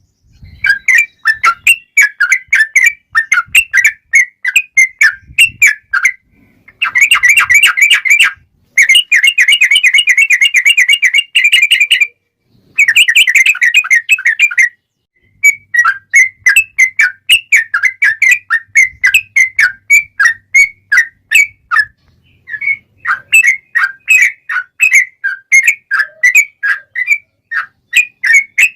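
Yellow-vented bulbul (trucukan) singing loudly: quick repeated chirping notes, with long fast rolling trills ('ropel') running from about 7 s to 15 s, broken by two short pauses, before the chirping resumes.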